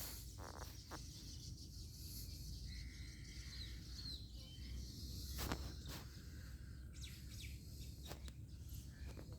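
Faint outdoor nature ambience: scattered bird chirps and a couple of held whistled notes over a high insect hiss and a low rumble, with a few sharp clicks.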